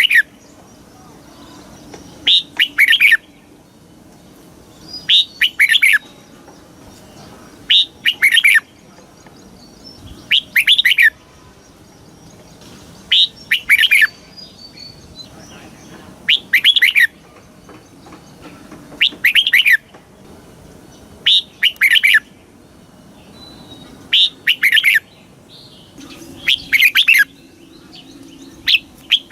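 Red-whiskered bulbul singing the same short, bright whistled phrase over and over, about one phrase every two and a half to three seconds.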